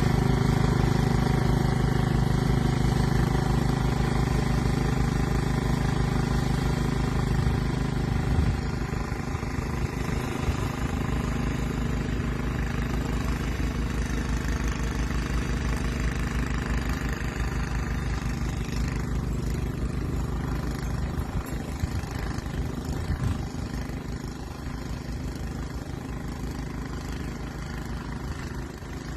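An engine running steadily, louder at first, then a little quieter and rougher after a short knock about eight seconds in.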